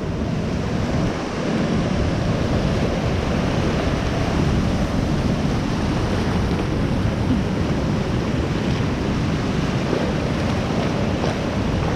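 Steady rush of surf waves breaking, with wind buffeting the microphone as a low rumble.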